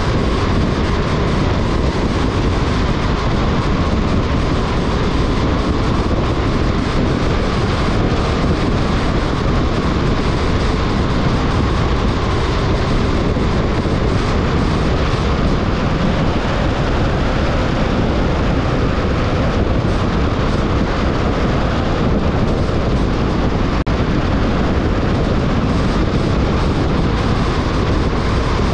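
Steady road noise of a car driving: tyre and wind noise with a low rumble, unchanging throughout.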